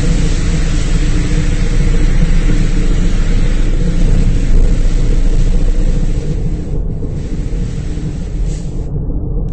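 Automatic car wash running: a loud, steady rush of spraying water over the low rumble of the wash machinery. The hiss of the spray eases about six seconds in and cuts off near the end.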